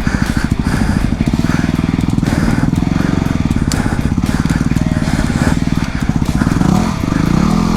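Single-cylinder Yamaha WR250R dual-sport engine with an FMF Q4 exhaust running under throttle, a fast even pulsing beat, with the revs rising and falling a little near the end.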